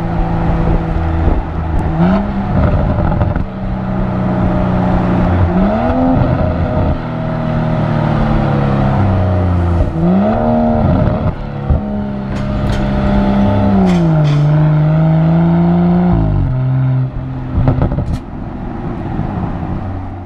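BMW X4 M40i's turbocharged straight-six engine and exhaust running under load. The engine note rises and falls several times as it revs and changes gear, with a few sharp cracks in the second half.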